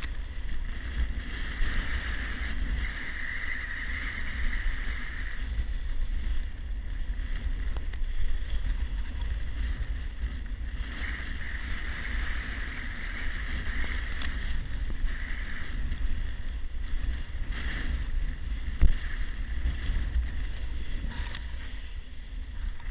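Wind buffeting the microphone in a steady low rumble, over the rush of surf that swells and fades twice.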